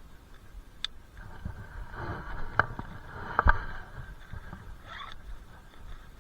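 A few sharp clicks and knocks, the loudest a close pair about halfway through, over a low rumble.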